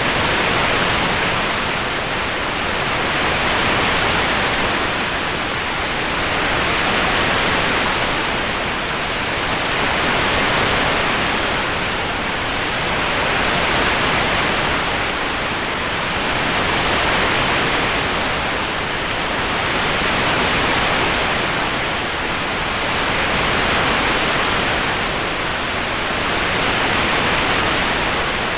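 Rain-sound ambience: an even, steady hiss with no separate drops or thunder, swelling gently in loudness about every three and a half seconds.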